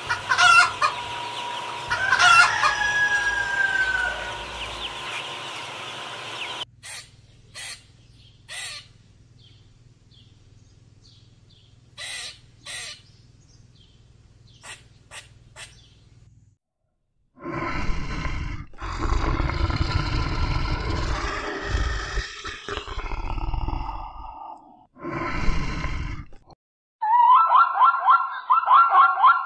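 Chickens and a rooster: clucking, short chirps and crowing, in several separate clips with abrupt cuts between them. The loudest stretch comes about two-thirds of the way through.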